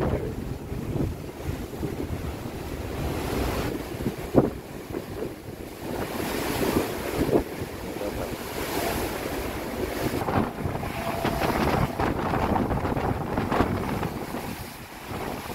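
Strong wind buffeting the microphone over the wash of sea waves, with scattered short knocks.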